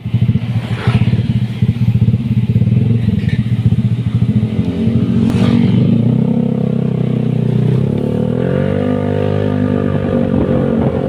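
Honda Vario 125 scooter's single-cylinder engine running through an aftermarket R9 exhaust, first idling with a rapid pulsing beat, then rising in pitch about six seconds in and held at higher revs near the end.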